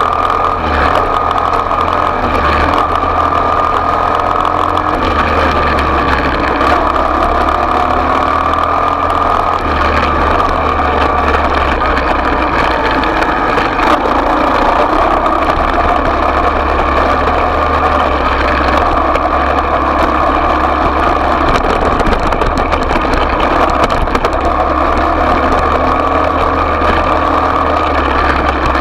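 Small off-road motorbike engine running steadily at a high, slightly wavering pitch.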